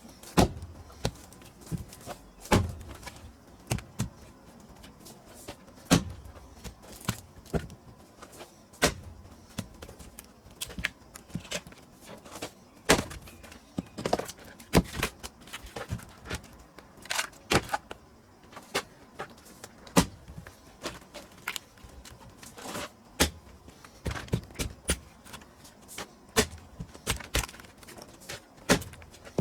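Irregular run of sharp knocks and thunks from splitting pine firewood: tools striking the rounds and split pieces knocking together, with a louder blow every few seconds.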